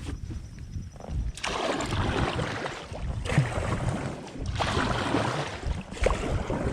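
Kayak paddle strokes in the water, a splashy surge about every second and a half, over a low rumble.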